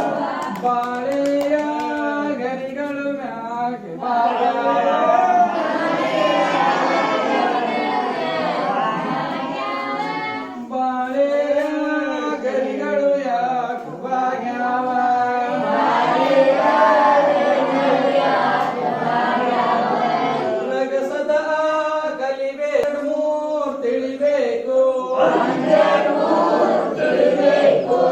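A group of voices singing together without instruments, phrase after phrase with short breaks between them.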